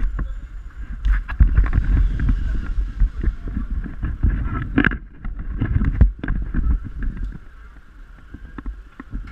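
Wind buffeting an action camera's microphone on a zipline ride, a loud low rumble, with many sharp knocks and rattles from the zipline gear and a faint steady whir from the trolley on the cable. The rush eases off over the last couple of seconds.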